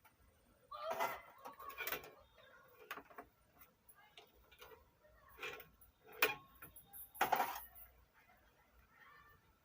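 Small clicks, taps and rustles of wires and a home-made volume-control lead being handled and hooked up to an amplifier driver board, with a few louder scrapes among them.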